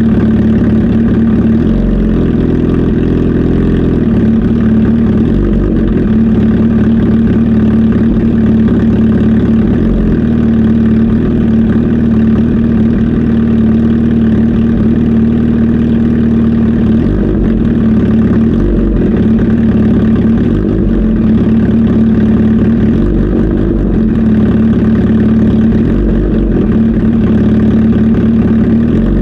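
Kawasaki Z H2 SE motorcycle's supercharged inline-four engine idling steadily.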